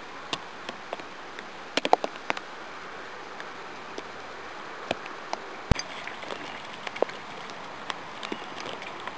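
Wet snow storm: a steady hiss of falling precipitation with scattered, irregular sharp ticks and drips, a cluster of them about two seconds in and a louder tick in the middle.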